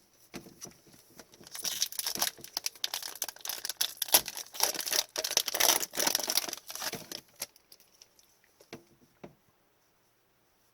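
A 2020-21 Upper Deck Series 1 hockey card pack's foil wrapper is torn open and crinkled for several seconds. A few light clicks follow near the end.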